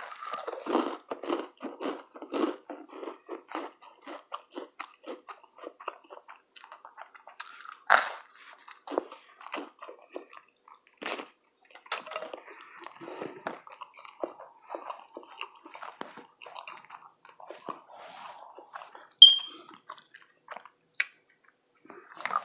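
A person chewing and biting crunchy food close to the microphone: a quick run of crunching chews, with a few sharp clicks in between.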